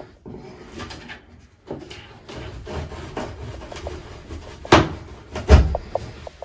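A bathroom wall being cut open by hand: irregular scraping and rasping, with two sharp knocks near the end, the second the loudest.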